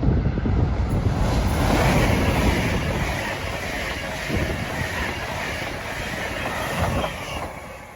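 A non-stop train passing through the station at speed: loud rushing wheel and air noise with some clatter of wheels over the rails, easing off near the end as it clears.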